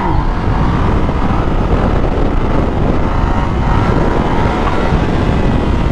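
Motorcycle riding along the road: the engine runs steadily under heavy wind rush over the microphone.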